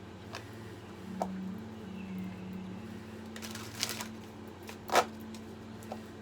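A deck of reading cards handled and shuffled by hand: a few light card clicks, a quick riffling rush a little past three seconds in, and a sharp card snap about five seconds in, the loudest sound, over a low steady room hum.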